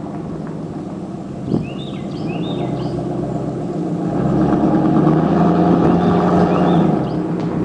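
Straight-piped exhaust of a 2002 Ford F-150's 4.6-litre V8, with no mufflers, an H-pipe and high-flow catalytic converters, running with a deep, open note. Engine speed and exhaust volume rise about halfway through and hold there. There is a single sharp click about one and a half seconds in.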